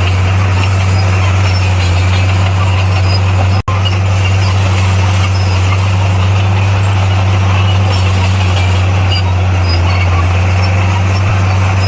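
Bulldozer's diesel engine running steadily with a deep, constant hum. The sound cuts out for an instant just under four seconds in, then carries on unchanged.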